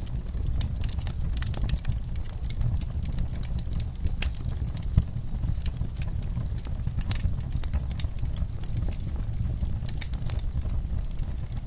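Wood fire in a fireplace crackling, with frequent irregular pops over a low steady rumble of flames; one sharper pop about five seconds in.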